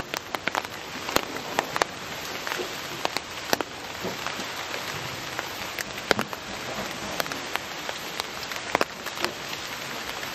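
Steady rain falling, a continuous hiss with frequent loud, irregular ticks of individual drops striking close by.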